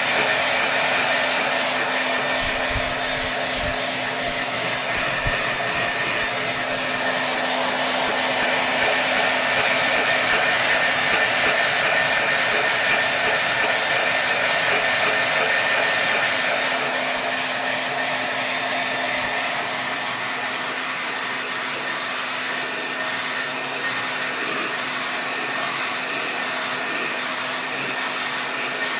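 Hair dryer running at full power: a steady blowing rush of air with a faint motor whine. It eases slightly in level a little past halfway.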